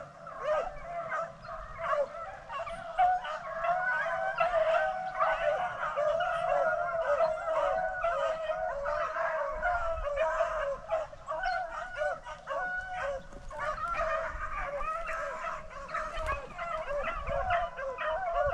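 A pack of beagles baying together in full cry while running a rabbit on its scent trail, many voices overlapping with no break.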